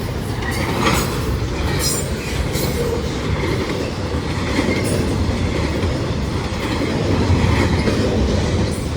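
A train's cars rolling past on the tracks: a steady rumble of wheels with clicks over the rail joints and a few brief high squeals in the first few seconds.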